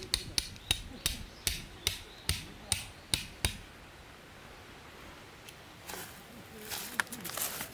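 Hammer driving tent stakes for a tarp. About ten sharp, ringing strikes at roughly two and a half a second stop about three and a half seconds in, and soft rustling follows near the end.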